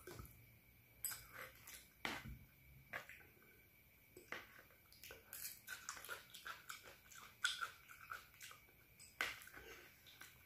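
Quiet close-up chewing of Indomie fried noodles, with irregular wet mouth smacks and clicks.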